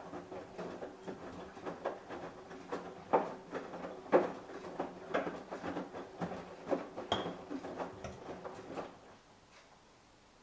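Samsung Eco Bubble washing machine running a wash: a steady motor hum under irregular knocks and clatters of the load tumbling in the drum, both stopping about nine seconds in.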